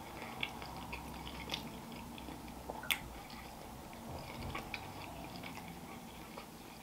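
A person chewing a mouthful of bourbon chicken and shrimp with mashed potatoes, with scattered small mouth clicks and one sharper click about three seconds in.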